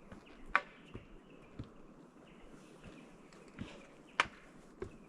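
Footsteps on a bush walking track: irregular crunching steps, a few of them sharper, over a faint outdoor background.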